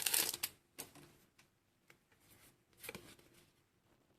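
Foil booster pack wrapper crinkling as it is torn open, dying away about half a second in, then a few faint soft slides and taps of trading cards being handled.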